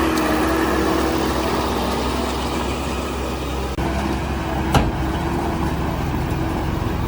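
Heavy diesel construction machinery engine running steadily, with one sharp knock a little under five seconds in.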